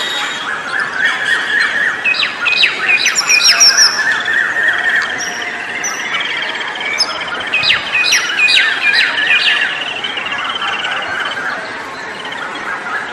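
A dense chorus of many birds chirping and squawking together. Clusters of sharp, falling calls stand out over it a couple of seconds in and again around the middle.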